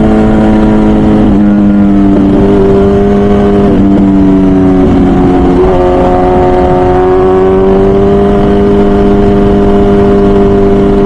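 Onboard sound of an MV Agusta Brutale 1000RR's 998cc inline-four running through a full titanium Arrow exhaust while the bike is ridden through turns. The engine note drops in pitch in a few steps over the first half, then holds and slowly climbs.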